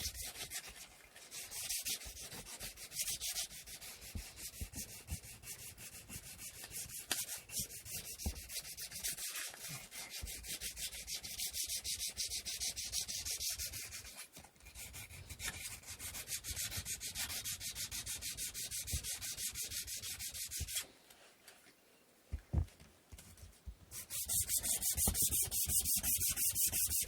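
Sandpaper worked back and forth by hand over the wooden parts of an inkle loom in quick, continuous strokes. The sanding stops for about three seconds near the end, with a single tap in the pause, then starts again louder.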